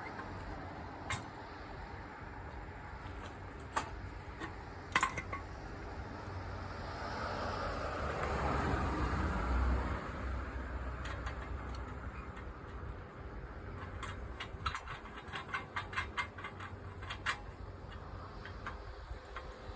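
Scattered light metal clicks and clinks over a steady background hum, with a quick run of small ticks near the end; a rush of noise swells and fades about eight to ten seconds in.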